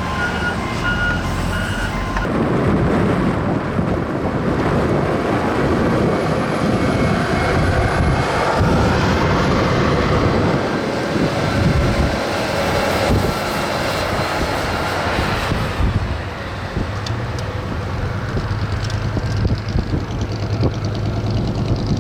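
Steady rushing noise of vehicles and wind on a snowy road. A repeating electronic beep sounds at the start and stops about two seconds in.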